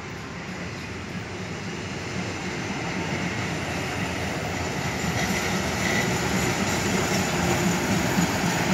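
Diesel passenger train pulling into the station, its engine and wheels on the rails growing steadily louder as it draws level with the platform.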